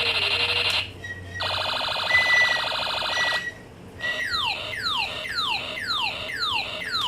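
Electronic sound effects from a battery-powered toy's sound chip, switching between effects. A buzzing tone cuts off, a rapidly pulsing buzz with a high whistle runs for about two seconds, then comes a string of quick falling-pitch sweeps, about two or three a second, like a siren or laser effect.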